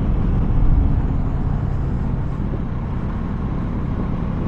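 Steady low rumble of a motorcycle ride, engine and wind noise mixed together, picked up by a rider-worn microphone. No single event stands out.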